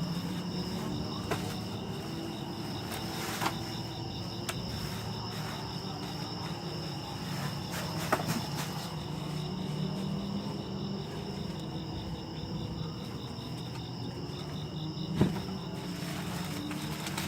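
Insects trilling steadily in a few high, finely pulsed tones, over a low steady hum, with a few faint clicks about 3, 8 and 15 seconds in.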